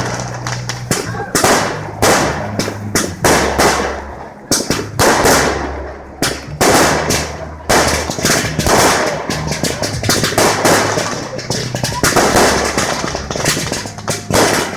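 Fireworks display: a rapid, continuous series of bangs and crackling bursts going off one after another.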